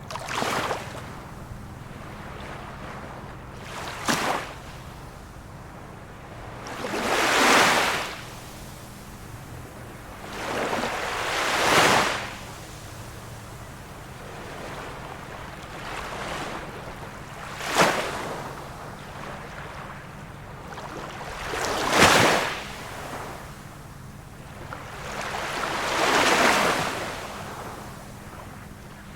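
Small waves of a calm sea breaking and washing on the shore, one every few seconds, about seven in all. Some land as short sharp slaps, others swell and fade more slowly.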